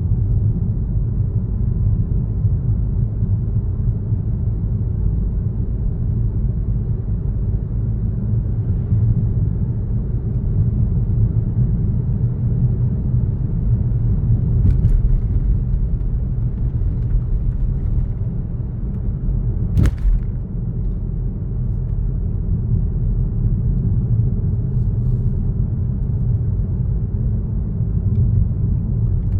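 A car driving at steady speed: a constant low rumble of road and engine noise. A single sharp click cuts through about two-thirds of the way in.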